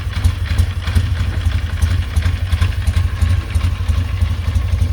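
Freshly rebuilt BSA A10 Golden Flash 650 cc parallel-twin motorcycle engine running steadily with a mechanical clatter over its exhaust note; it sounds wild.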